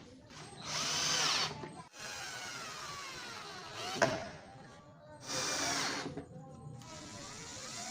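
Power drill running in short bursts, its motor whine rising and falling in pitch, with a sharp click about four seconds in.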